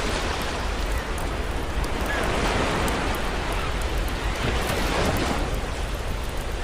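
Ocean surf washing in, swelling twice, with a campfire crackling in short sharp snaps over it.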